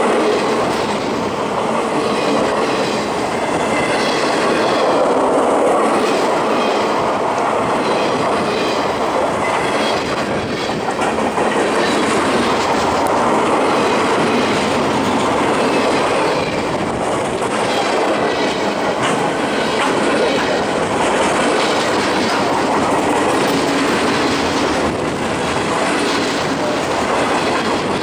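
Loaded flatcars of a fast freight train rolling past close by: a steady, loud rush of steel wheels on rail, with the clicking of wheels over the track running through it.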